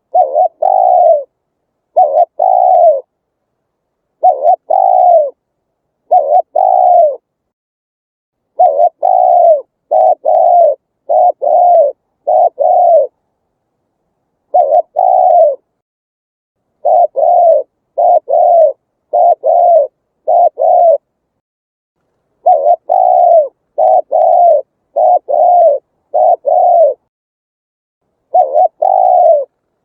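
Spotted dove cooing loudly in repeated phrases of two to five short coos that dip slightly in pitch, each phrase separated by a second or two of silence.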